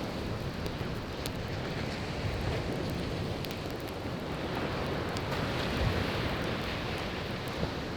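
Ocean waves washing on the shore in a steady rush that swells up briefly past the middle, with a few sharp pops of burning firewood crackling in a campfire.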